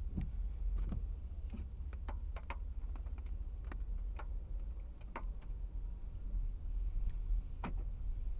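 Steady low rumble of a car driving, heard from inside the cabin, with irregular sharp knocks and clicks scattered through it.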